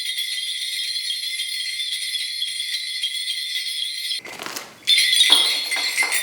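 Korean shaman's ritual bell cluster shaken in a steady, continuous jingle. It breaks off a little after four seconds, then is shaken again, louder.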